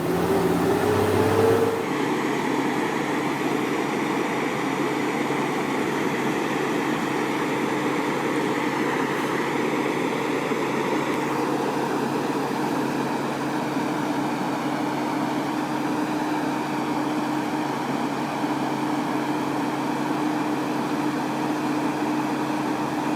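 Ford tandem dump truck engine, its pitch gliding up and down for the first two seconds, then after an abrupt change running at a steady pitch.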